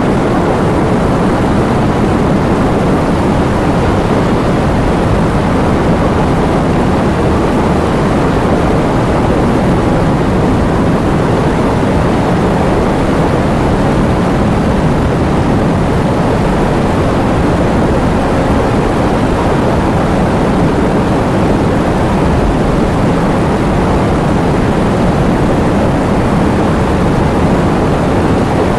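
Heavy rain with wind: a steady, dense rushing that holds an even level throughout, weighted toward a deep rumble with little hiss in the highs.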